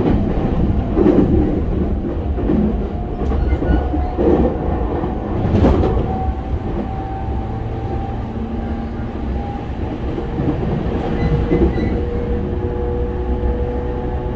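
Running sound inside a JR East E231 series 1000-subseries motor car with Hitachi IGBT-VVVF control: a steady low rumble with wheels clicking over rail joints a few times in the first half. From about halfway, steady whining tones from the inverter and traction motors are held over the rumble.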